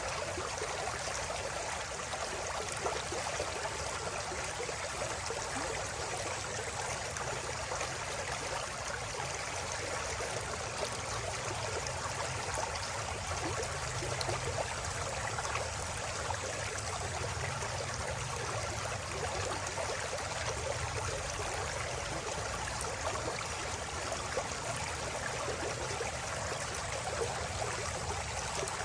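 River water flowing and babbling over stones, a steady continuous rush.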